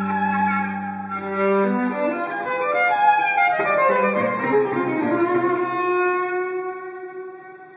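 Bowed violin playing a melodic line of held notes over a sustained low note. It dies away near the end.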